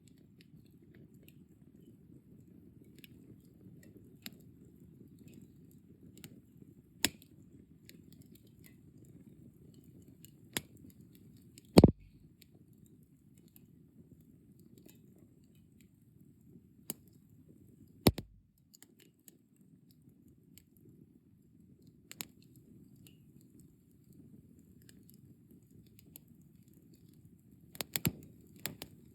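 Firewood burning in a fire pit: a steady low rush of flame with scattered crackles and a few sharp pops, the loudest about twelve seconds in and a quick cluster near the end.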